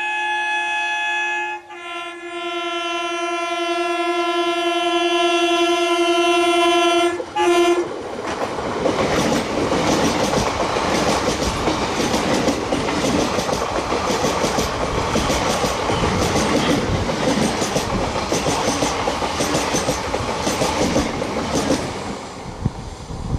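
Local electric multiple-unit train sounding its horn: a blast that cuts off, then a longer one of about six seconds. The coaches then pass with a steady rumble and a rhythmic clickety-clack of wheels over rail joints, fading near the end.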